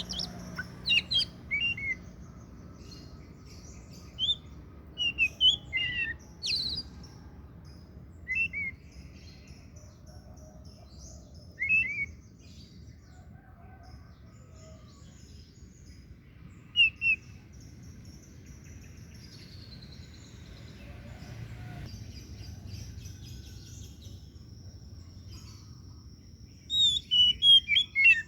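Oriental magpie-robin (kacer, the white-breasted 'daput' form) singing: bursts of short, sharp whistled notes separated by pauses, with a long quieter gap in the middle and a rapid flurry of notes near the end.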